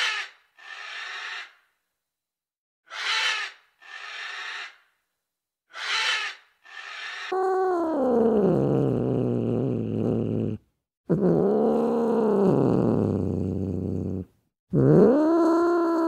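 Animal calls: pairs of short raspy breath-like calls about every three seconds, then three long drawn-out calls that slide in pitch, the first falling, the second rising then falling, the third dipping and rising again.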